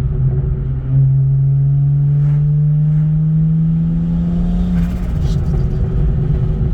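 BMW 335i's N54 straight-six with a single GT35 turbo, its exhaust note rising steadily as the car pulls for about four seconds. On lift-off about five seconds in, a brief crackle of exhaust pops from the tune's backfire setting, then the engine settles to a steady drone.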